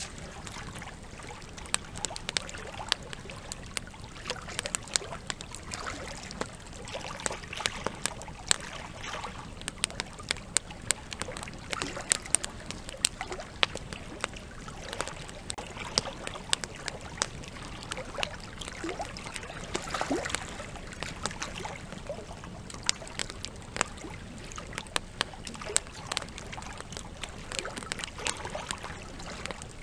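Campfire crackling with frequent sharp, irregular pops over the steady trickle and rush of a river.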